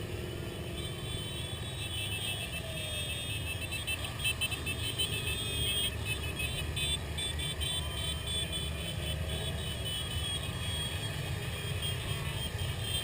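Many motorcycle engines running together in a slow-moving crowd of bikes: a steady low rumble, with single engine notes rising and falling as bikes rev and pass.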